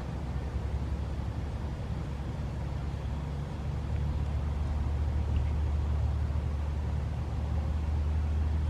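Steady low rumble of a vehicle, getting louder about three and a half seconds in.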